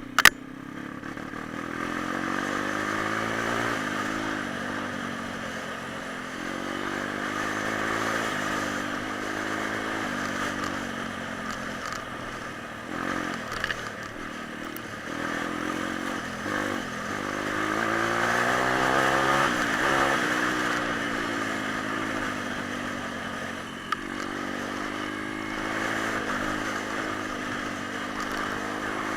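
Small single-cylinder four-stroke pit bike engine being ridden, its pitch rising and falling over and over as the throttle is opened and closed, with a steady rushing noise behind it. A sharp click sounds right at the start.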